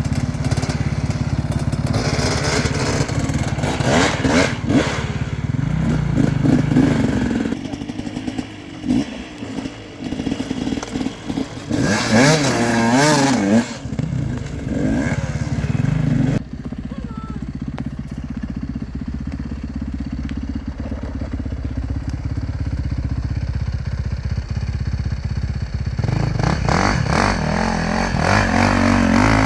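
Dirt bike engines revving under load on a steep climb, the pitch rising and falling with the throttle. A steadier, lower engine drone runs through the middle stretch before the revs pick up again near the end.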